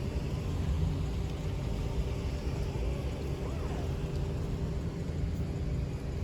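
Steady low rumble of vehicle engines running nearby in road traffic, level and unbroken.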